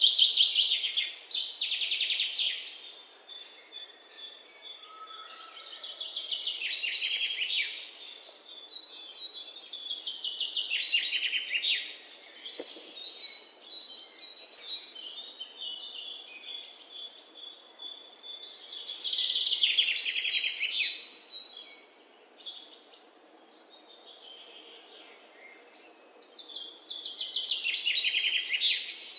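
Forest birdsong: a bird repeating a rapid run of high notes that falls in pitch, several times over, with quieter high chirps and thin whistles from other birds in between.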